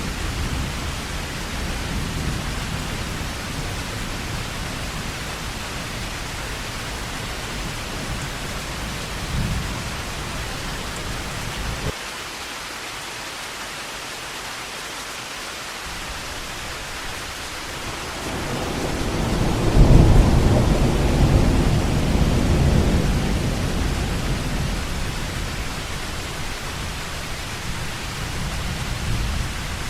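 Heavy rain falling in a steady hiss, with thunder underneath. A low rumble cuts off suddenly about twelve seconds in. Then a roll of thunder builds, peaks about two-thirds of the way through and rumbles away over several seconds.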